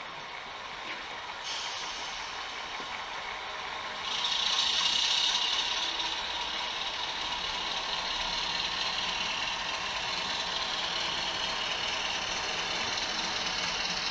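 OO gauge model train running on the layout, its DCC sound decoder playing locomotive sounds. A louder hissing rush comes in about four seconds in and holds steady.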